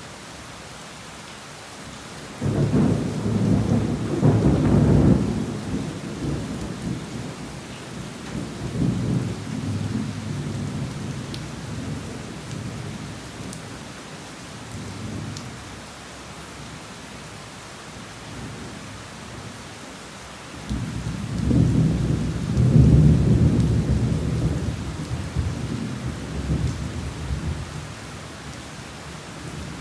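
Heavy rain falling steadily, with two long rolls of thunder. The first breaks in suddenly a couple of seconds in and rumbles away over about ten seconds. The second starts just as suddenly about two-thirds of the way through and fades near the end.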